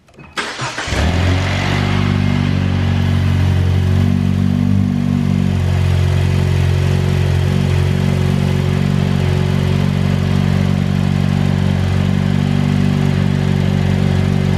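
Jeep Wrangler JL's 2.0-litre turbocharged four-cylinder engine cranking briefly and catching about a second in, then settling into a steady idle.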